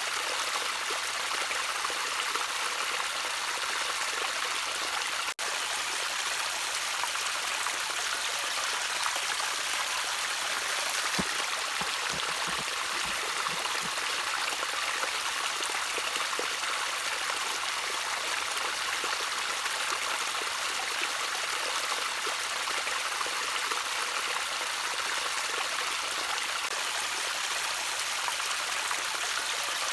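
Gently trickling stream water, a steady, even rush of running water, with a momentary dropout about five seconds in.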